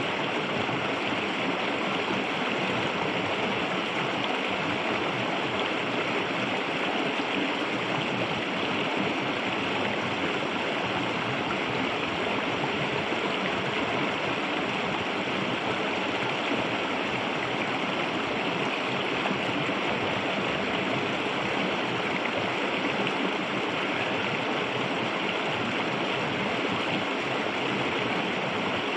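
Clear river water flowing and gurgling over rocks in a steady, even rush.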